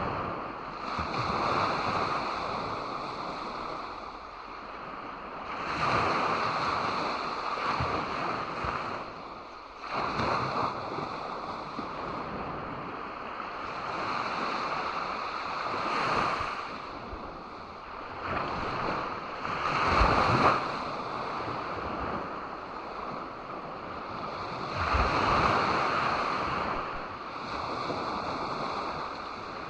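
Ocean waves breaking and washing up on a beach, the surf swelling and falling back every few seconds, with the strongest surges about twenty and twenty-five seconds in. Some wind rumble on the microphone.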